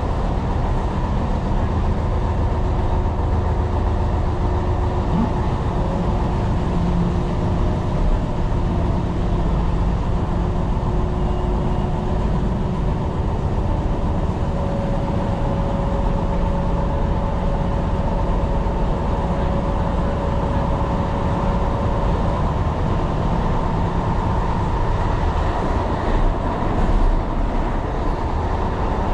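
Tyne & Wear Metro train running along the line, heard from inside the train: a steady rumble of wheels on rail with faint steady whining tones from the running gear.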